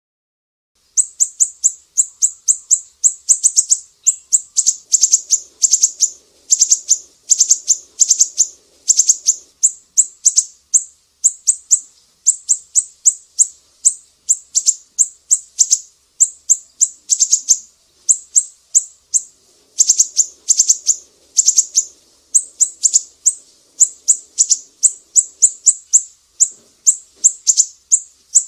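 Sumatran siri-siri songbird singing a long run of rapid, sharp, high-pitched chirps in quick strings, starting about a second in.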